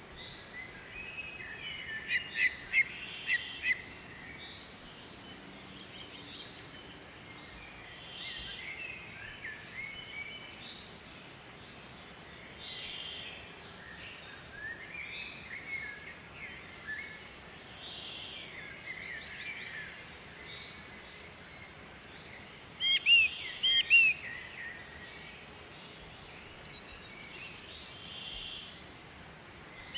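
Several birds singing and calling at once: overlapping chirps and short whistled phrases throughout, with louder runs of quick chirps about two seconds in and again about three-quarters of the way through.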